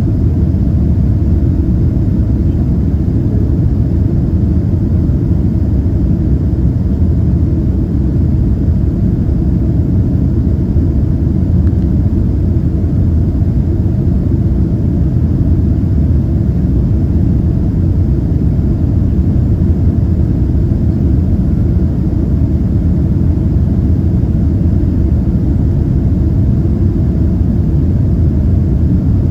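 Steady, loud low drone of a Boeing 767-332ER's engines and air noise heard from inside the passenger cabin, unchanging throughout.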